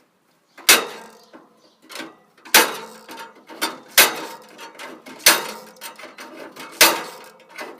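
Sheet-metal case of a window air conditioner being cut open by hand: about five sharp metallic cracks, each ringing briefly, roughly one every second and a half, with smaller clicks and scrapes between.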